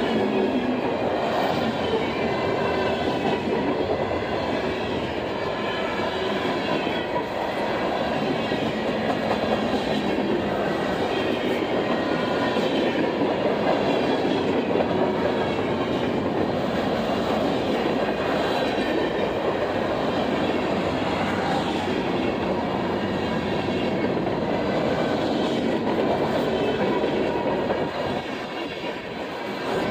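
Train cars rolling past close by, with a steady rumble and the clickety-clack of wheels over rail joints.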